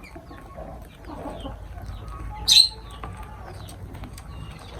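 Lovebirds chirping softly, with one loud shrill call about two and a half seconds in.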